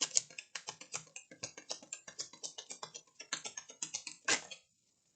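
A deck of reading cards being shuffled and handled: a fast, irregular run of crisp clicks and taps, about ten a second, with one louder snap about four seconds in.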